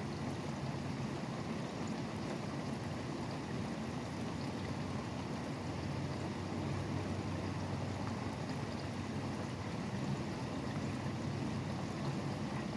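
Steady rain falling, with a continuous low rumble of highway traffic underneath.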